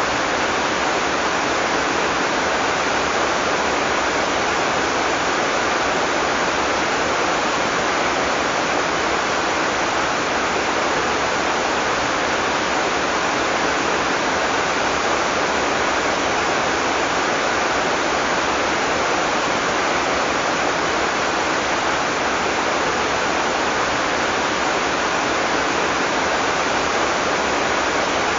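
Heavy tropical rain falling steadily as a dense, even hiss with no thunder.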